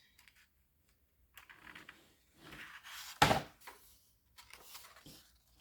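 Hardcover book being handled: soft paper rustling as it is held and its pages moved, with one sharp knock against it about three seconds in.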